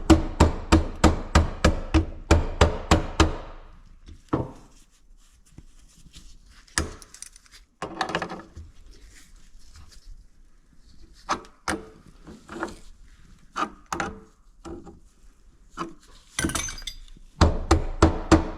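Quick run of hammer blows, about four a second, on the case of a 1985 Yamaha Tri-Z engine as its crankcase halves are being split apart, with a ringing note under the strikes. A pause with scattered single knocks and clanks follows, then another fast run of blows near the end.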